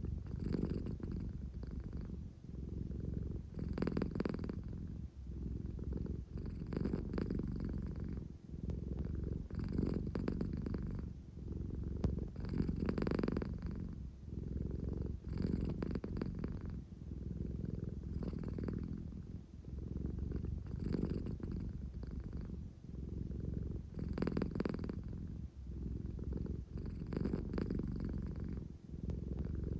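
American Shorthair cat purring continuously, the purr swelling and easing with each breath about every three seconds.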